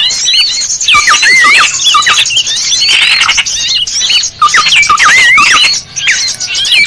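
Small birds calling over one another in a loud, continuous chorus: sharp whistled notes that swoop up and down, over steady twittering. This is a bird-lure recording used to draw in small birds.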